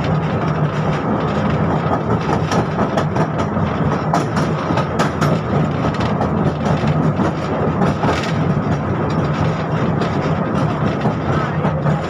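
71-605 (KTM-5M3) tram with DK-259 traction motors running along the track: a steady low hum and rumble, with scattered clicks of the wheels over rail joints, thickest a few seconds in and again about two-thirds through.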